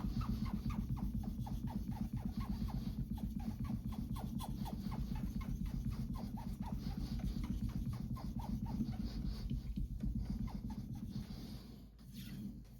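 Global kitchen knife being sharpened by hand on a whetstone: quick back-and-forth scraping strokes, about four a second, that die away near the end, over a steady low background hum or music.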